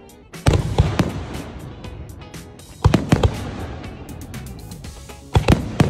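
Aerial firework shells bursting overhead: three pairs of sharp bangs, about a second in, about three seconds in and near the end, with crackling between them. Music plays underneath.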